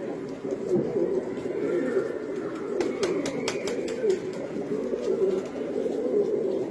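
Many domestic pigeons cooing together in a dense, steady chorus of overlapping low calls. A quick run of sharp clicks breaks in about three seconds in.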